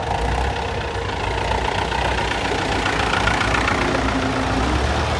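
Tractor engines running steadily at low revs, a continuous low drone.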